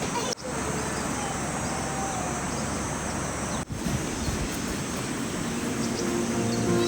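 Steady rushing noise of running water, cutting out briefly twice.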